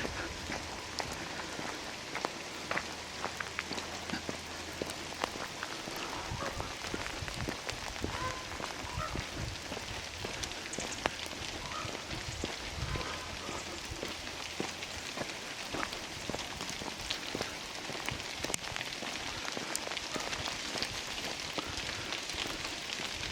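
Steady rain falling in a redwood forest, with many scattered drip and drop clicks over an even hiss.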